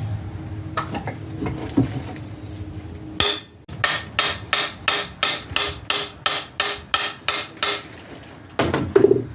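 A hammer striking metal in a steady rhythm, about three blows a second for four or five seconds, each blow ringing briefly. A louder ringing knock comes near the end.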